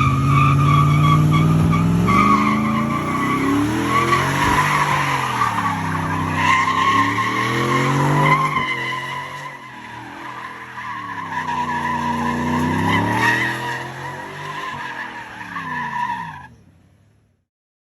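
Pickup truck spinning its rear tyres through a burnout and donut, the tyres squealing steadily while the engine is floored, its revs falling and rising several times. The sound cuts off abruptly near the end.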